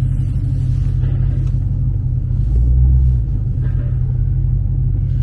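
Cadillac V-series car's engine and freshly reworked exhaust rumbling at low speed while the car backs out and pulls away, with a brief swell about two and a half seconds in.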